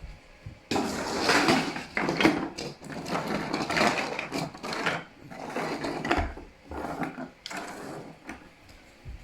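A large 3D-printed plastic dragon being handled, its plastic clattering and rattling in irregular bursts that start about a second in and die away near the end.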